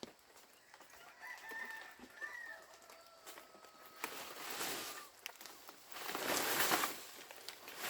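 A rooster crows once, about a second in, a long call ending on a held note. Later come two spells of rustling noise, the louder one near the end.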